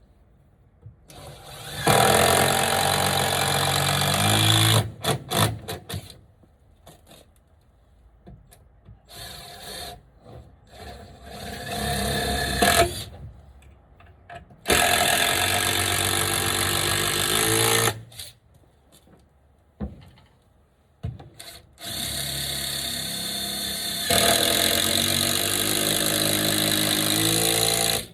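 Power drill driving screws into wood, in several runs of a few seconds each, the motor pitch dropping as each screw seats, with short knocks between runs.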